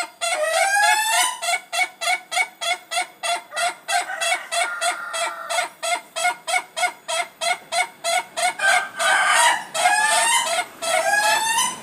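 Rooster crowing one long crow for a duration test: a few rising opening notes, then a long run of rapid, evenly spaced staccato notes at about five a second, and more rising notes near the end before it cuts off.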